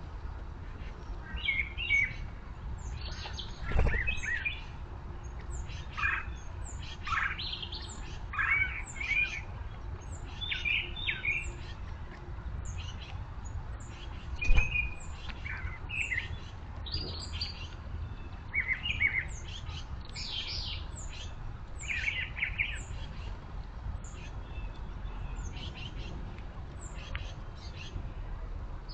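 Small birds chirping in many short, repeated notes, with two dull thumps, the louder one about halfway through.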